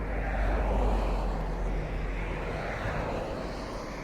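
Engine noise of a passing vehicle, swelling to its loudest about a second in and then slowly fading away.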